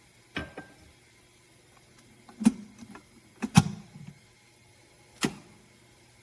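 Sharp knocks and clicks from an electric kettle being handled: two near the start, a louder pair with a low thud about halfway through, and one more near the end.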